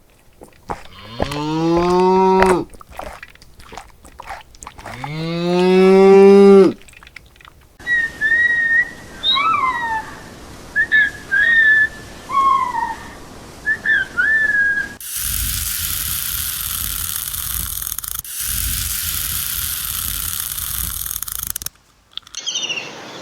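A cow mooing twice, two long calls that each rise in pitch, the second the louder. Several seconds of short, high gliding chirps follow, then a steady hiss-like noise.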